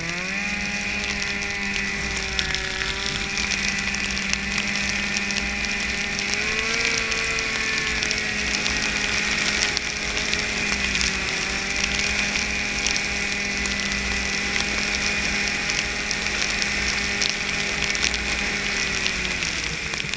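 Snowmobile engine running at speed under way, its pitch climbing at the start, swelling briefly about seven seconds in, then holding steady before dropping off near the end.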